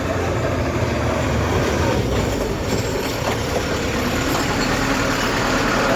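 Heavy truck engine running, a steady low rumble mixed with road and traffic noise.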